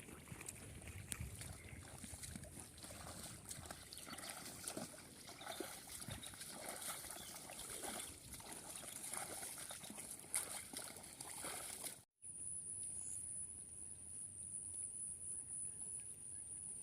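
Water sloshing and trickling, with small splashes and clicks, as water buffalo feed in shallow water. After an abrupt cut about twelve seconds in, a steady high-pitched pulsing trill takes over.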